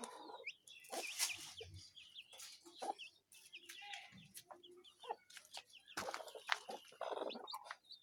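Parrot-beak long-tail chickens and their chicks clucking, with many short high peeps scattered throughout and a few sharp knocks in between.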